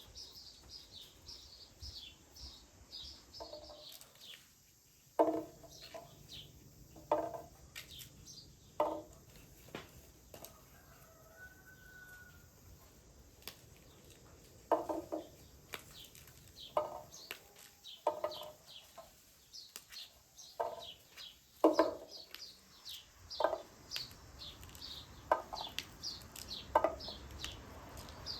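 Chickens clucking, about a dozen short calls spaced a second or two apart, with small birds chirping quickly and high in the background.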